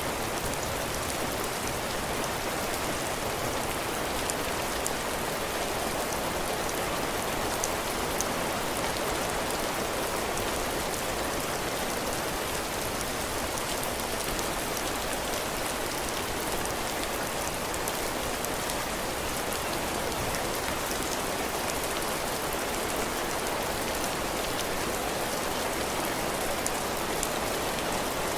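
Steady heavy rain falling on a porch roof and the ground, an even hiss with scattered sharp drop hits.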